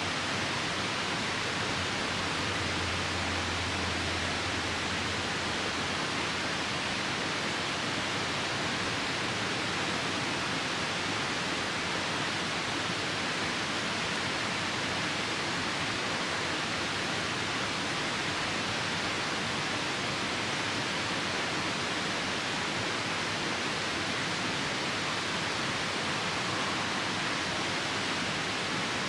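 Steady rush of a nearby river in rain: an even wash of water noise without a break, with no separate crackles standing out.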